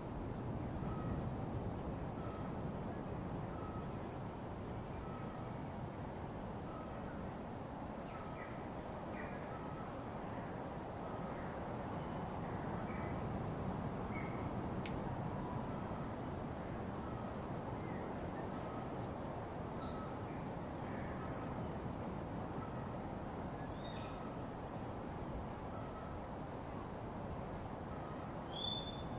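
Wild birds calling sparsely over a steady rushing background, with a short note repeating about once a second and a constant high whine.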